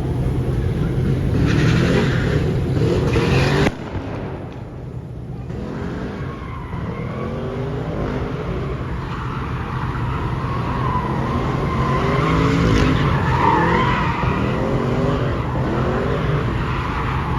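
Car engines revving up and down over and over, with tyres squealing, as at a street takeover with cars spinning burnouts. The sound drops off suddenly about four seconds in, then the revving and squealing build again.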